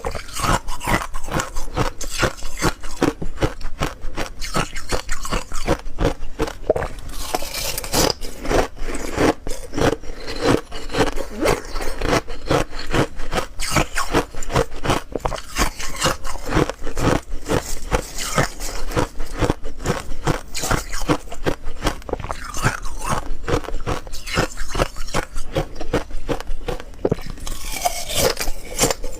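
Ice being bitten and chewed close to the microphone: a dense run of crunches and crackles, many a second, without a break.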